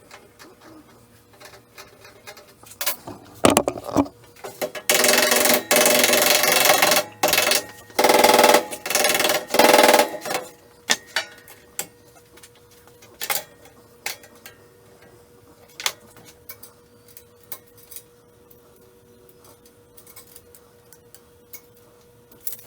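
Hand-tool work on a bench: scattered knocks and clicks, with two longer scraping or rasping passes of about two seconds each near the middle, over a faint steady hum.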